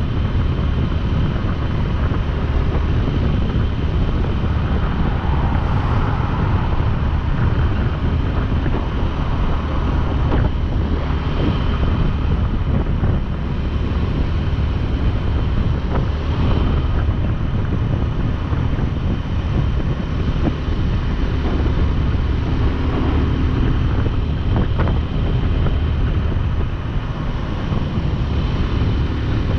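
Wind rushing over the microphone of a motorcycle-mounted camera at riding speed, with the motorcycle's engine running steadily underneath.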